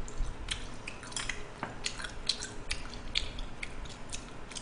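Close-up chewing of braised pig's trotters (jokbal): a string of short, irregular wet clicks and smacks, several a second.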